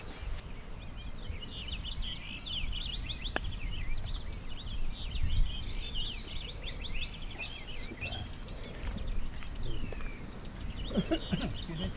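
Birds chirping in a busy run of quick, short chirps, over a steady low rumble of wind on the microphone.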